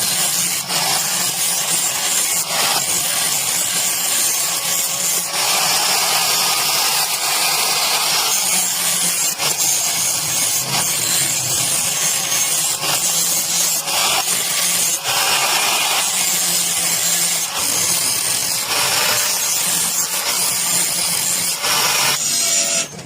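Electric power tool working iron strip: a steady motor hum under a continuous hissing grind. It stops abruptly near the end.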